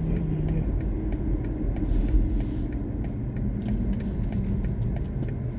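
Road and tyre rumble of a BMW i4 M50 electric car driving along, a steady low rumble with a brief hiss about two seconds in.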